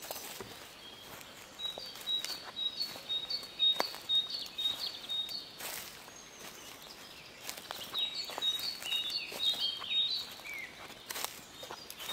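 A songbird singing two phrases of rapid, high, repeated notes; the second ends with a few notes sliding down. Scattered soft clicks and rustles are heard throughout, over faint outdoor background noise.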